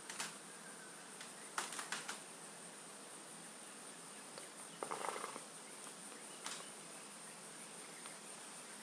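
Faint, steady high-pitched insect trilling, typical of crickets, with a few short rustles and clicks scattered through it.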